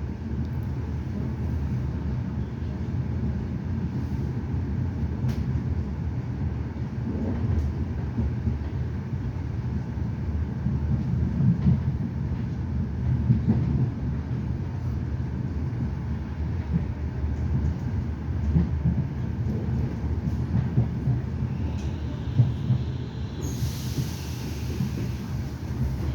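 Running noise of a Trenitalia Rock double-deck electric train as it arrives at a station: a steady low rumble with scattered clicks of the wheels on the track. A loud hiss of air starts near the end.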